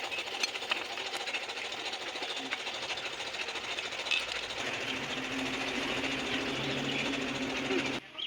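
A small machine running with a fast, even rattle. A low steady hum joins about halfway through, and the sound cuts off abruptly near the end.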